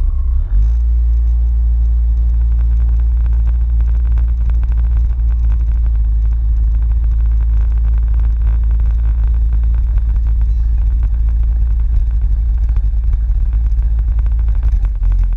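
Motor vehicle engine running at a steady speed under a heavy, steady rumble, typical of wind on the microphone while riding.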